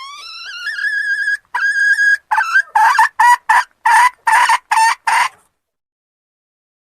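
Junglefowl hen calling to a cock: a long rising note and a held note, then a quick run of about seven short clucks that stops abruptly.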